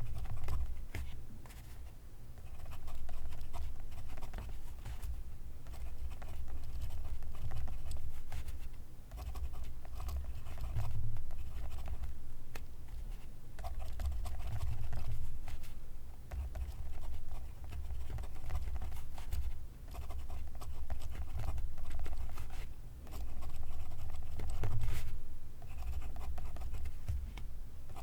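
Pencil writing on paper: graphite scratching in short strokes with brief pauses between words.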